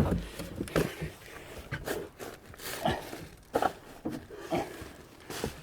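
Irregular knocks and rustling from someone moving over attic joists, a sound every half second to a second.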